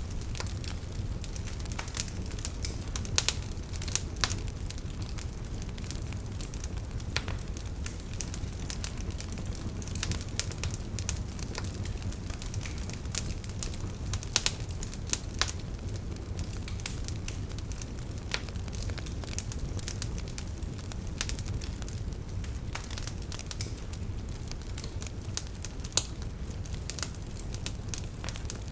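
Campfire burning: the firewood crackles and pops in irregular sharp snaps over a steady low rumble, with a few louder pops scattered through.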